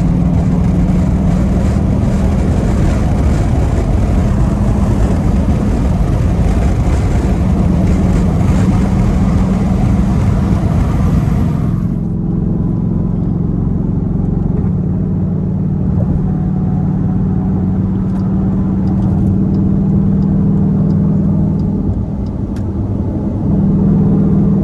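Straight-piped Dodge Durango SRT's Hemi V8 exhaust pulling hard with a loud, steady drone. About halfway through the harsh upper hiss cuts off abruptly and a lower, smoother drone carries on.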